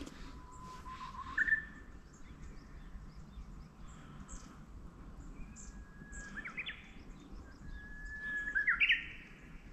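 A songbird singing clear whistled phrases: a held note that steps up near the start, then twice a long held note ending in a quick run of rising notes. Faint short high chirps from other small birds come between.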